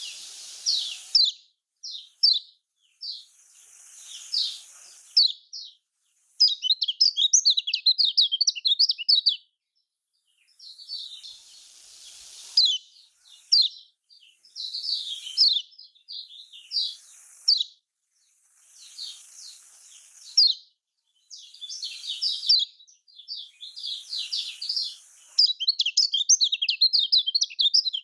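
Kecial kuning, the Lombok white-eye, singing in quick high chirping phrases broken by short pauses. Some phrases run into rapid trills, around 6 to 9 seconds in and again near the end.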